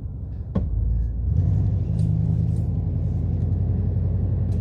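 SUV's V8 engine running under way, heard from inside the cabin, a steady low drone that grows louder about a second in as it pulls. A single sharp click about half a second in. The engine has an intermittent misfire, which the owner puts down to spark plug wires lifting off the distributor cap.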